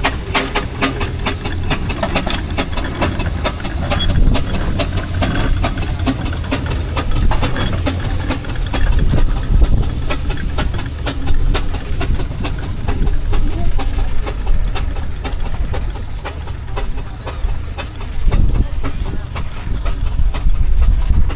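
Steam engine running: a steady hiss of steam with a fast run of sharp exhaust beats that thin out over the second half, over a low rumble.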